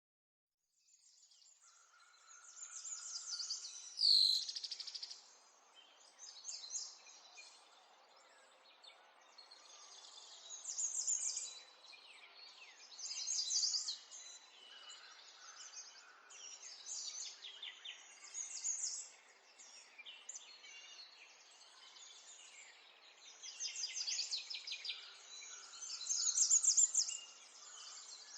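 Small songbirds singing and twittering, with a burst of chirping song every second or two and one loud sweeping call about four seconds in. A faint steady outdoor hiss lies underneath. The birds start about a second in.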